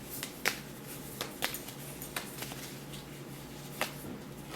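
Oracle cards being handled as the next card is drawn and laid out: a handful of light, sharp clicks and taps spread over a few seconds, over a faint steady hum.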